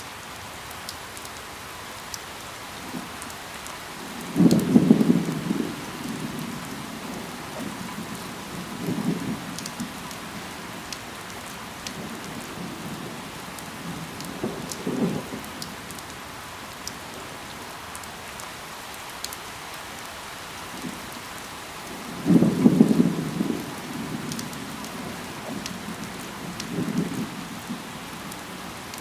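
Steady rain falling, an even hiss with scattered drop ticks. Two loud low rumbles break in about four seconds in and again about twenty-two seconds in, with fainter ones between.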